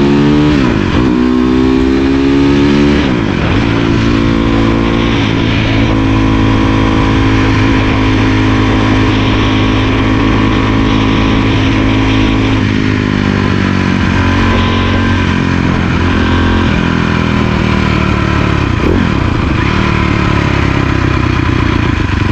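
Cannondale 440 dirt bike's single-cylinder four-stroke engine running under way: the revs climb over the first few seconds, drop at a shift about three seconds in, then hold fairly steady at cruising speed with small rises and falls.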